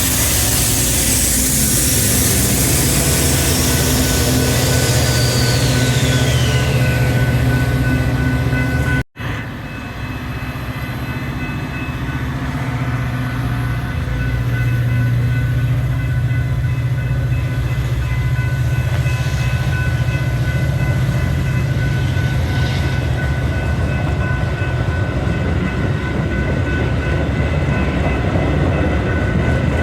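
Metra commuter train running by: a steady low engine hum under wheel and rail noise. The sound cuts out abruptly for a moment about nine seconds in, then the train noise carries on.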